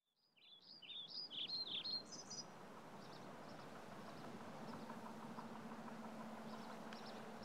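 Birds chirping, fading in from silence: a run of quick gliding chirps in the first couple of seconds, then fainter scattered calls over a soft steady background hiss and a faint low hum.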